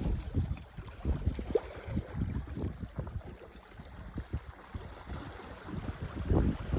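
Wind buffeting the microphone in irregular low rumbling gusts, stronger near the start and again near the end.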